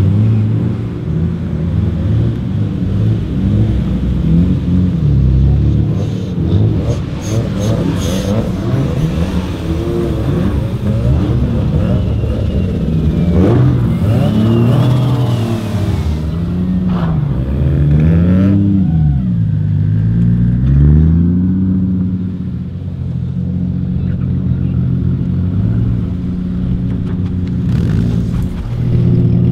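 Several tuned car engines revving and driving past one after another, the engine note rising and falling again and again, then settling into a steady drone for the last several seconds.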